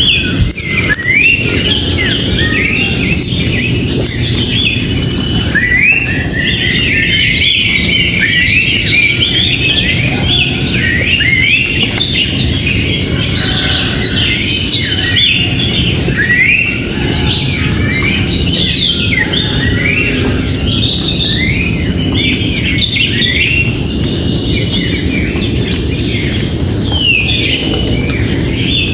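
A chorus of many small wild birds chirping at once, short quick rising notes overlapping without pause. A steady low rumble runs underneath, and thin high steady tones sit above.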